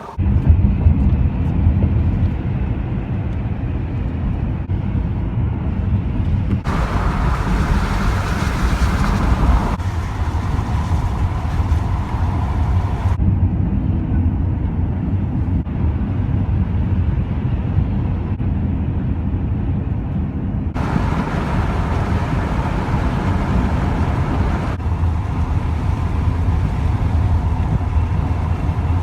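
Cargo van driving at road speed: a steady low engine and tyre rumble. Its brightness shifts abruptly several times.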